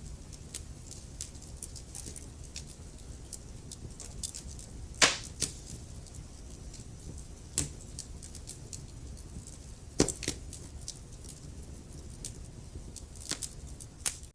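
Wood fire burning in a fireplace: a steady low rumble from the flames with frequent small crackles of the logs and a few louder pops, about 5, 7.5 and 10 seconds in.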